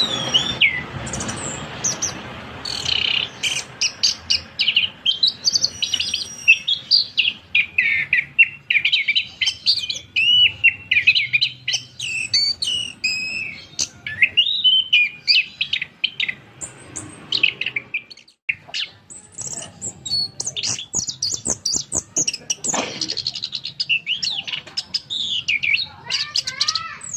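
Chestnut-capped thrush (punglor kembang) singing a long, varied song of quick whistled and chattering phrases, with a brief pause about two-thirds of the way through.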